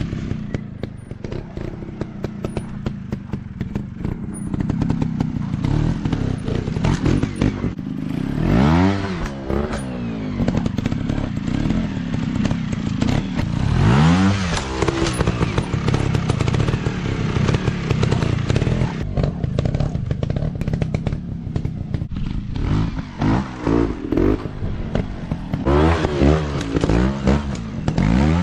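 Dirt bike engine revving up and falling back again and again over a steady run, with the strongest sweeps about halfway in and near the end.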